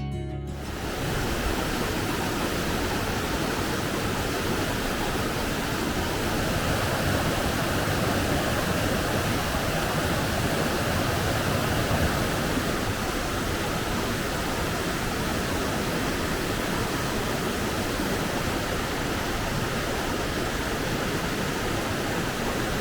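Waterfall's falling water making a steady, dense rush of noise.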